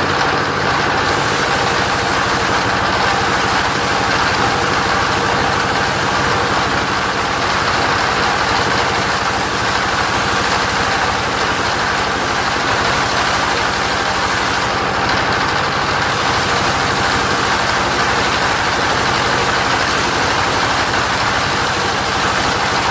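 Engine of a mobile sawmill running steadily, with a steady band of noise in the upper middle of the range from the machine.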